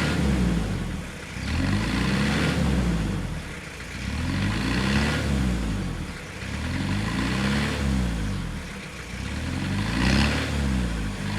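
A 1993 Vauxhall Carlton's engine being revved up and let fall back about five times in a row, each rev a rise and drop in pitch lasting one to two seconds. The crankcase breather pipe is off, to check how well the cleaned oil separator vents the crankcase.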